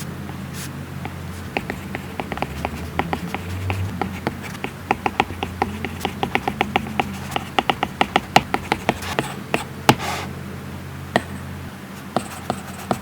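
Apple Pencil tip tapping on an iPad Pro screen: many quick, sharp clicks in irregular runs, with a brief scratchy stroke about ten seconds in, over a low steady hum.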